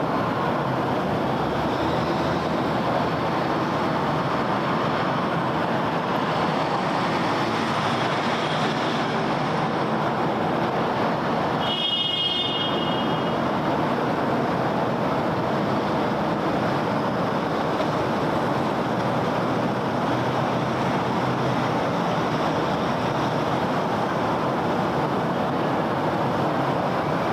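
Steady city road traffic: a continuous wash of passing cars and tyre noise. A brief high-pitched tone about halfway through.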